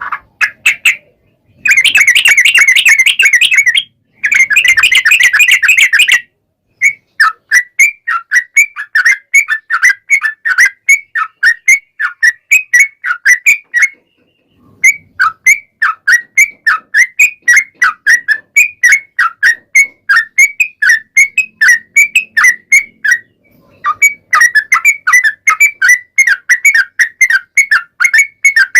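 Yellow-vented bulbul song: long rapid runs of chirping notes, about four to five a second. Two dense, unbroken trills come in the first six seconds, then the notes go on in steady strings with two short pauses.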